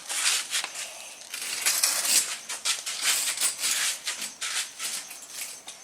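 Wood campfire crackling, with many quick, irregular sharp snaps and pops.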